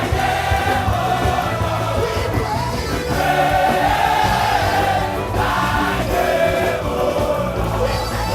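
Gospel praise music with a choir singing over a steady bass accompaniment.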